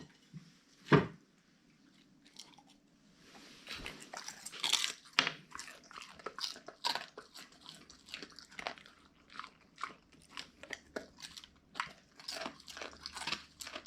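Siberian husky chewing and crunching food, with one loud snap about a second in, then a run of irregular crunching bites.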